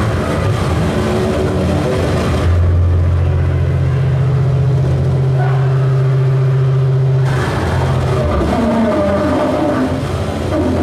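Harsh noise music: loud, dense distorted noise. About two and a half seconds in, the high end drops away, leaving a steady low drone for about five seconds before the full noise returns.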